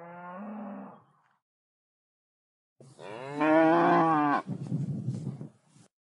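Cattle mooing: the end of one moo in the first second, then after a short gap a louder, longer moo about three seconds in that trails off into a rougher, breathier sound.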